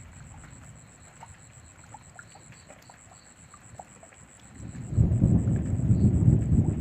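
Rain falling with scattered drop ticks, then thunder rumbling in about five seconds in, loud and low, and rolling on.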